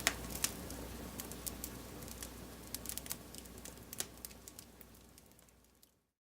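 Wood fire crackling faintly, with scattered sharp pops over a low steady hiss, fading out to silence near the end.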